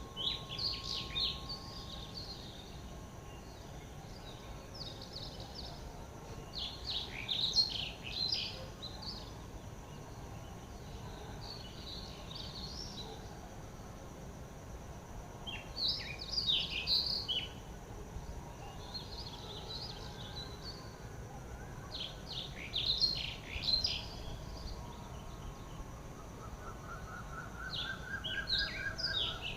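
Wild birds singing: a loud, high phrase of quick chirps about every six to eight seconds, with softer phrases in between, over a steady outdoor hiss. Near the end a lower series of short rising notes comes in.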